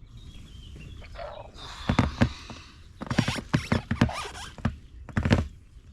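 Handling noises while a hook rig is worked out of a carp's hard mouth: rustling and scraping, with several sharp knocks and clicks from about two seconds in.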